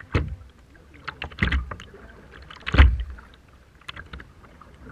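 Rough sea water splashing and sloshing, with three heavy surges a little over a second apart and smaller splashes between them.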